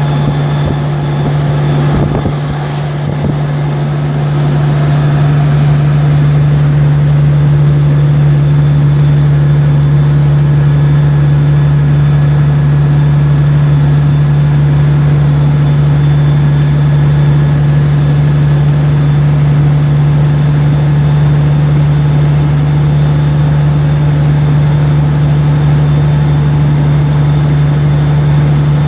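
Car driving at a steady speed: a constant low drone from the engine and road, with road noise around it and a couple of brief knocks about two seconds in.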